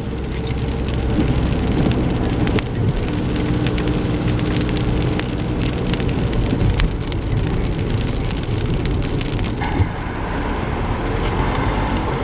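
Car driving in the rain: steady engine and road noise inside the cabin, with rain striking the car in many small ticks.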